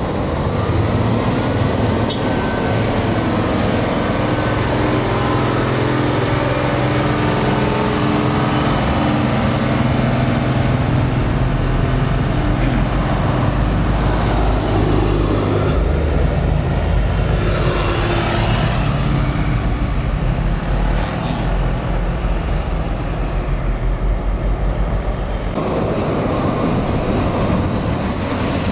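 Heavy diesel truck engines running as loaded trucks pass slowly, with a steady deep drone. The sound changes abruptly about 25 seconds in.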